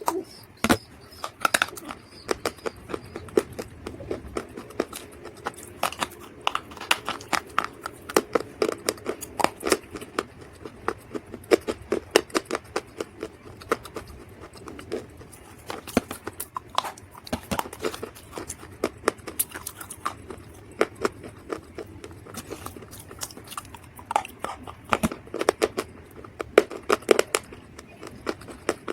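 Dry mud or clay being crunched: a dense, irregular run of sharp crackles and snaps.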